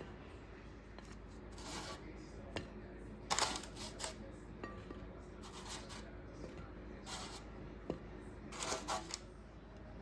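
Intermittent handling sounds: about five short rustling or scraping bursts, the loudest about three and a half seconds in, with a couple of sharp clicks between them, over a low steady hum.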